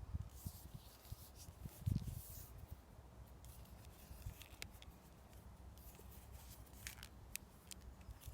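Faint rubbing, swishing and small clicks of peeled buff willow rods being bent and twisted into a ring by hand, with a soft knock about two seconds in.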